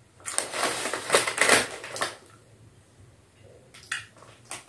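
Crisp bhujia (fried gram-flour noodle snack) being crunched while chewed, loud and crackly for about two seconds. Near the end come a few short crinkles of the snack packet.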